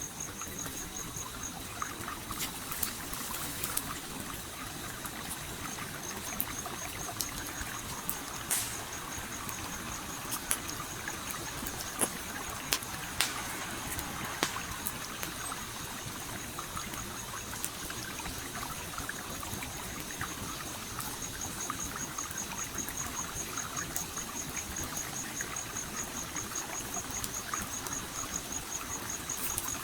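A stream trickles steadily while a campfire crackles, with scattered sharp pops of burning wood, most of them in the first half. A cricket chirps in a fast, even series of high notes; it drops out briefly near the start and then keeps going.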